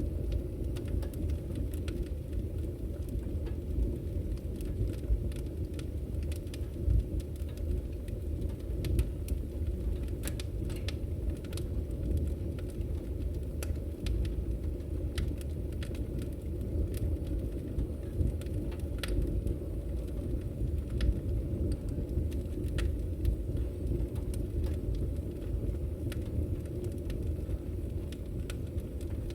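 Wood fire burning in a fireplace: a steady low rumble with irregular sharp crackles and pops from the firewood.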